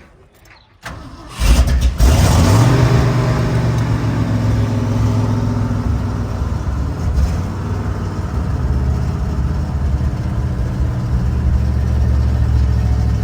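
Carbureted engine on a freshly cleaned Edelbrock AVS2 four-barrel carburetor, idle mixture screws set 2.5 turns out, cranking briefly about a second in, catching, revving once, then settling into a steady idle.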